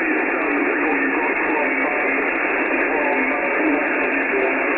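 Icom IC-9700 receiving 70 cm single-sideband: steady, narrow-band receiver hiss with a weak, barely readable voice from the other station under the noise, as the aircraft-reflected signal fades.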